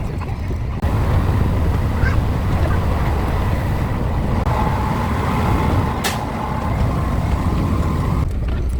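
Steady rumble of a moving passenger train heard from aboard, growing louder about a second in, with a steady high tone held for about four seconds in the second half and a single sharp click midway.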